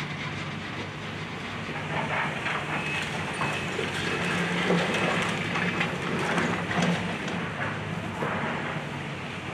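Excavator's diesel engine running steadily under load while it breaks up a house, with irregular cracking and crunching of splintering debris, heaviest in the middle.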